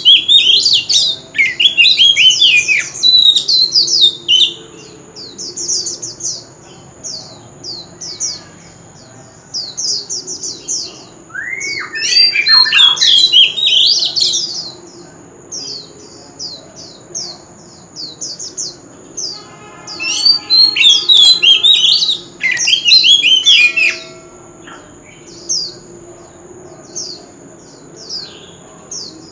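Oriental magpie-robin singing: loud bursts of quick, varied whistles and chattering notes, broken by pauses of a second or more.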